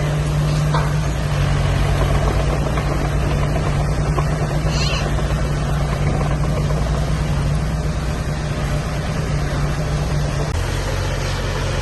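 Diesel engine of heavy earthmoving machinery running steadily under a constant load, with a slight change in its note near the end.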